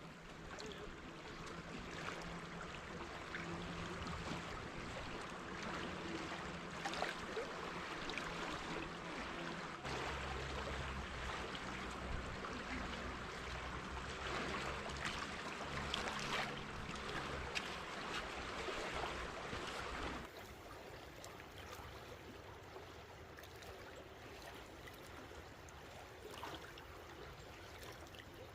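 River water rushing steadily, with a faint low hum underneath for the first two-thirds. About two-thirds of the way in the sound drops suddenly to a quieter, thinner rush of flowing water.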